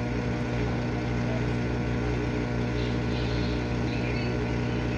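GE dishwasher running mid-cycle: a steady motor hum from its pump, over an even wash of water noise.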